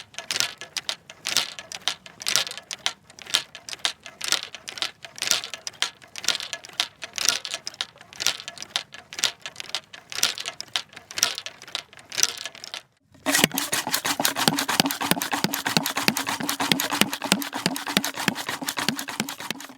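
Golf clubs clinking and rattling together in a carried golf bag, in irregular bursts. About 13 seconds in this stops, and a golf ball washer takes over: a denser, louder run of rapid scrubbing strokes with a steady hum under them.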